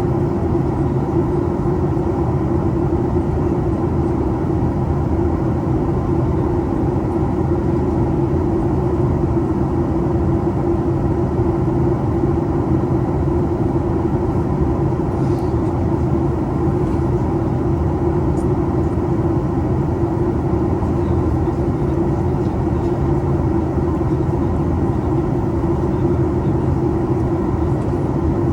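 Steady cabin noise of a Boeing 737 MAX 8 airliner in flight: its CFM LEAP-1B jet engines and the rush of air along the fuselage, a constant low drone with a strong hum band and no changes.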